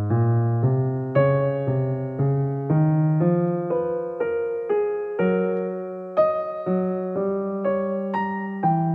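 Solo electric piano playing a slow melody, single notes struck about two to three a second and each dying away.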